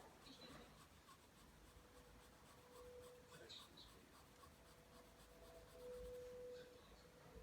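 Pencil drawing lines on paper: faint, soft scratching strokes of graphite on paper. A faint steady hum rises briefly twice, about three and six seconds in.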